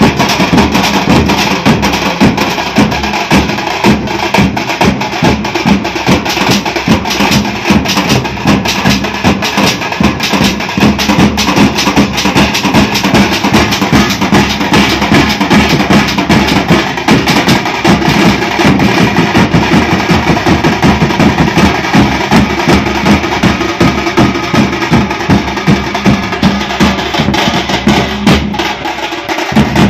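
A drum troupe playing a fast, dense rhythm of many quick strokes, with a brief dip in the heavy low beats near the end.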